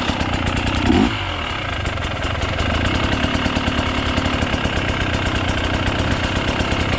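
Enduro dirt bike engine idling steadily with a fast, even pulse, and one brief louder moment about a second in.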